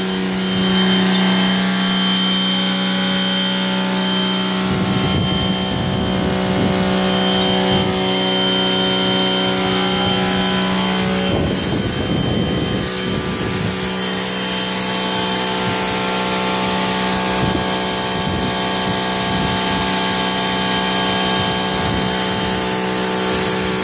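Electric pressure washer running steadily, its motor and pump giving a constant hum with a high whine while pumping about 1300 psi through 50 feet of hose.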